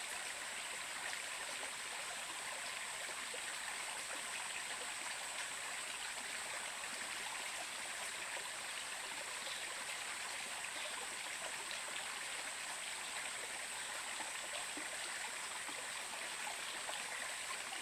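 Stream water running steadily, an even, unbroken noise of flowing water with a steady high hiss on top.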